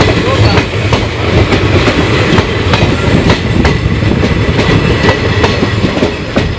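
Indian Railways passenger coaches running past at speed: a loud rumble of steel wheels on rail, with repeated sharp clacks as the wheel sets cross rail joints.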